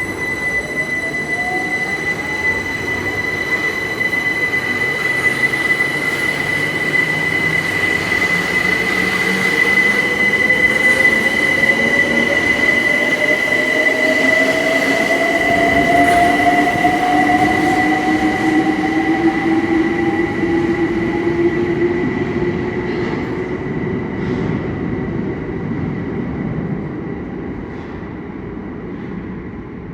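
Electric train pulling away, its traction motor whine climbing slowly in pitch as it accelerates, over a steady high-pitched whistle. The sound swells, then fades in the last third as the train draws away.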